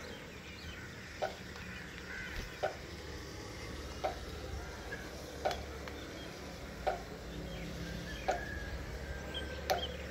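Outdoor nature ambience: a steady hiss with a short, sharp tick repeating evenly about every one and a half seconds, and faint bird chirps.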